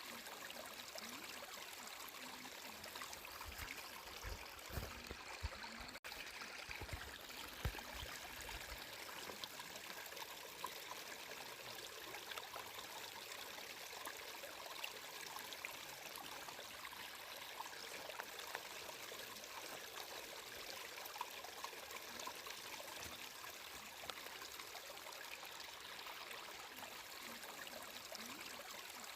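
Flowing water trickling steadily, with a few soft low bumps about four to nine seconds in.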